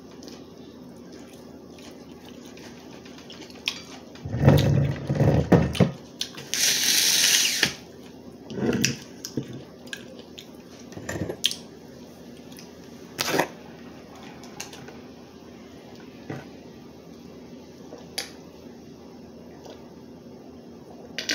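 Close-miked sounds of eating crab legs: scattered clicks and cracks of shell being handled, a loud stretch of low bumping about four seconds in, and a short burst of hiss just after it.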